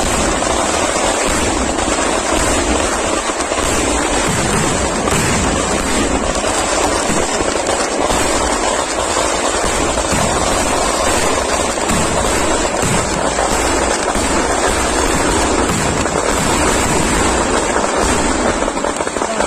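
A dense barrage of festival fireworks, with aerial shells and firecrackers bursting so rapidly that the bangs run together without a pause.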